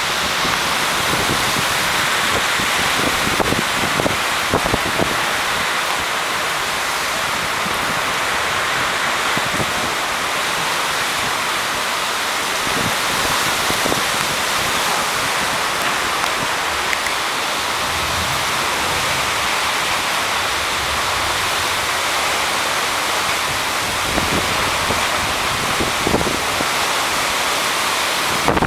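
Steady, loud hiss of heavy rain and gusting wind in a hurricane's outer bands, with irregular gusts buffeting the microphone.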